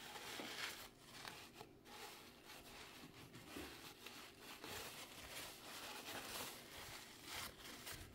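Faint, irregular scrubbing strokes: a toothbrush working old grease and grit off the metal of a vintage sewing machine.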